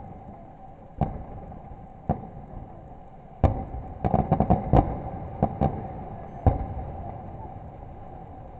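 Fireworks going off: single sharp bangs about a second and two seconds in, then a quick volley of bangs around the middle, a few more after it, and a rumble that fades away.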